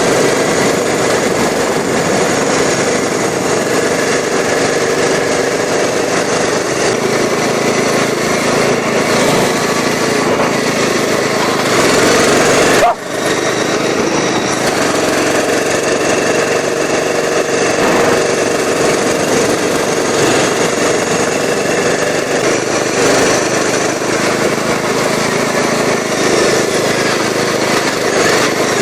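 Racing lawn mower's engine running flat out at speed on a top-speed run, loud and steady, broken once by a sudden brief dropout about halfway through.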